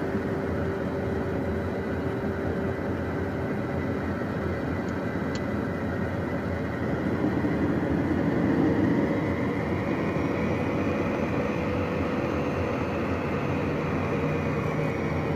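Cabin noise of a Beechcraft Premier 1A's twin turbofan engines while taxiing: a steady hum with faint whining tones, swelling slightly about seven to nine seconds in.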